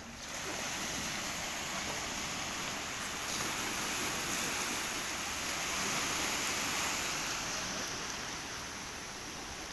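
Sea surf washing ashore: a steady rushing hiss that swells about three seconds in, peaks around the middle and eases off toward the end.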